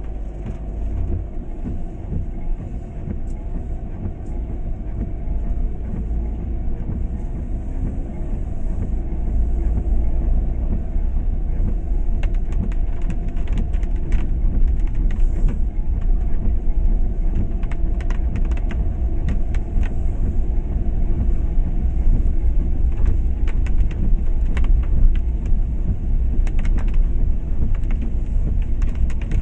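A moving vehicle heard from on board: a steady low rumble of running gear that grows a little louder, with scattered sharp clicks and rattles in the second half.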